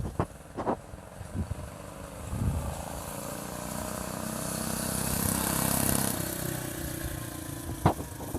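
Small go-kart engine running flat out with its muffler on during a drag run. It gets louder as the kart comes closer, is loudest about five to six seconds in, then fades as it moves away. A few sharp clicks are heard near the start and one near the end.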